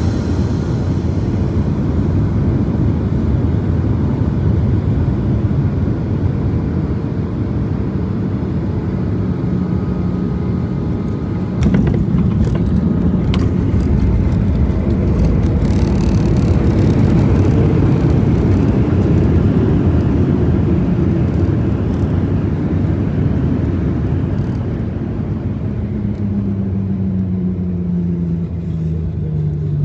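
Steady low rumble of a vehicle heard from inside, with a sharp thud about twelve seconds in, after which it grows louder for several seconds, and a hum sliding down in pitch near the end.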